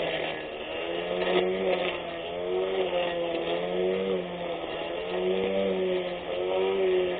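A 24V brushless electric grass cutter running, a steady motor whine whose pitch dips and rises again every second or so.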